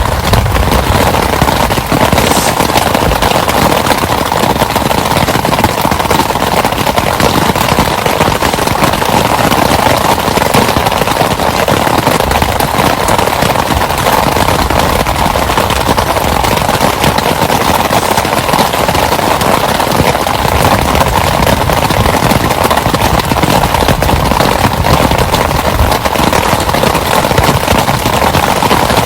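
Heavy rain falling steadily: a loud, dense, unbroken patter of drops.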